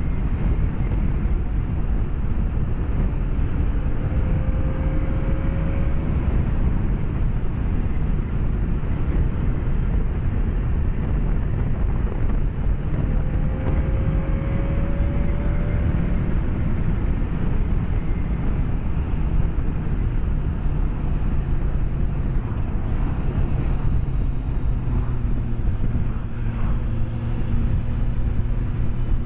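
BMW K1200S inline-four engine running under way, with wind rush, heard from a microphone inside the rider's helmet. The engine note rises gently twice and holds steadier near the end.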